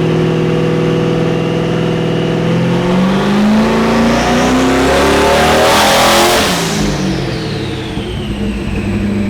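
Turbocharged V8 car engine on a chassis dyno: it holds steady, then revs climb for a few seconds. Around six seconds in the throttle comes off with a burst of hiss, and a high turbo whine falls away as the turbos spool down.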